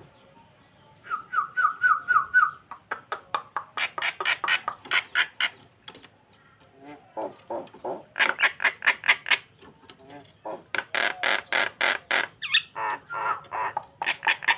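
Starling (jalak) calling in several bursts of rapid repeated harsh notes, about five or six a second, with a short falling note near the end. It is a lure call, meant to set another starling bobbing its head.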